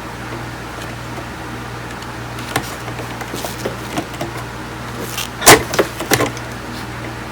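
Scattered clicks and knocks of tools and parts being handled on a workbench, with the loudest knock about five and a half seconds in. Under them runs a steady low electrical hum.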